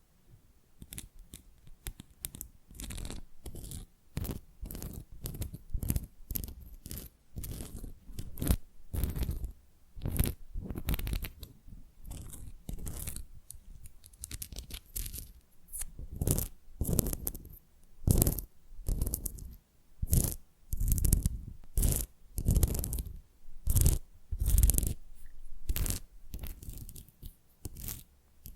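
Fingernails scratching the back of a tile in short, irregular strokes, about one or two a second.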